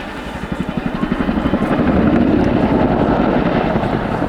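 Boeing CH-47 Chinook's tandem rotors beating in flight: a rapid, even thudding of the blades that grows louder over the first two seconds and then holds.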